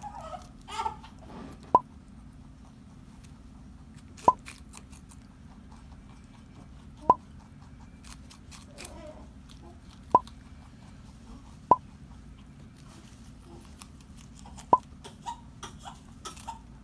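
Pet rabbit eating vegetables: quiet chewing with six sharp crunches spaced a few seconds apart, over a low steady hum.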